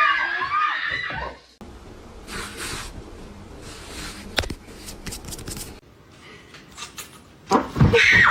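A cat's drawn-out meow for the first second or so, then scattered knocks and clatter like a cupboard door, and another short cry near the end.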